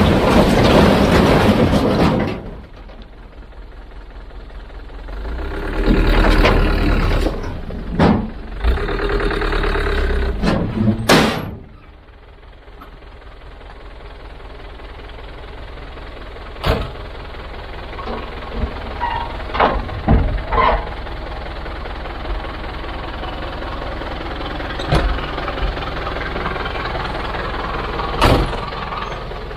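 A heavy machine's engine running with a steady low rumble that rises and falls in strength. Sharp metallic knocks and clanks come several times: a couple around the middle, one near the end.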